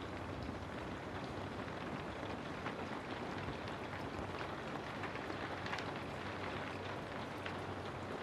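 Steady rainfall, a continuous hiss with individual drops ticking through it irregularly, over a low steady hum.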